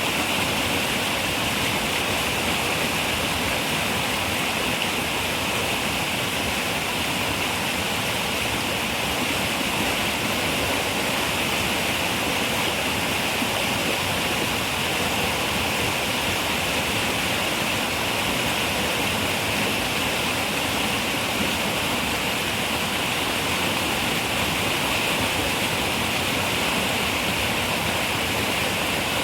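Running river water, a steady rushing flow with no breaks or changes.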